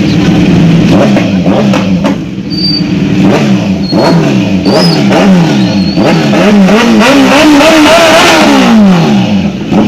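Superbike engines revving repeatedly over a steady idle: a string of short rising-and-falling throttle blips, then a longer rev that climbs and drops away near the end.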